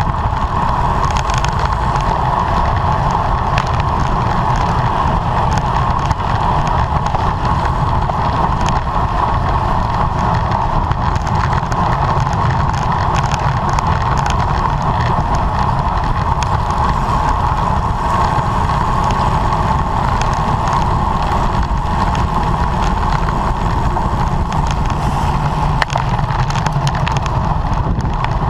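Steady rush of wind on the microphone of a bicycle riding at race speed, with a constant mid-pitched hum and faint scattered ticks from the bike and tyres.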